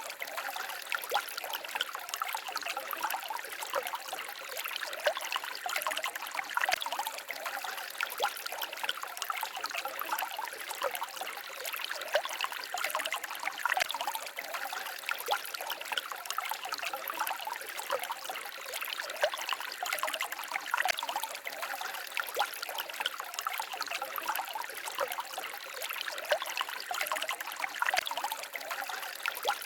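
A small forest stream babbling and trickling over stones, a steady rush of water dense with small splashes and gurgles.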